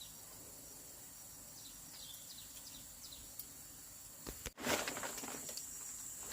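Faint outdoor ambience: a steady high-pitched insect drone with a few short falling bird chirps. About four and a half seconds in, the sound drops out for a moment, then comes back louder, as at an edit cut.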